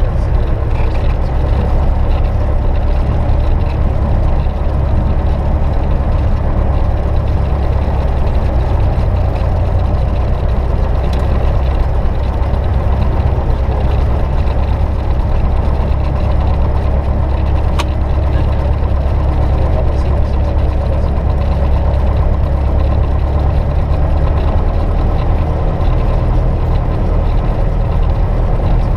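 Cessna 172S's four-cylinder Lycoming engine and propeller in a loud, steady low drone, heard from inside the cabin. The drone shifts slightly about 24 seconds in.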